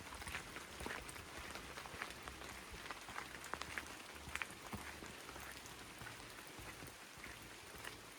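Steady rain falling through forest, with many scattered sharp ticks of drops striking close to the microphone.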